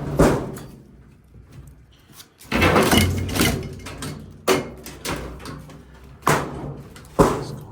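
A string of sharp knocks and clatters from parts being pulled loose and handled during tear-out work, with a longer rattle about two and a half seconds in.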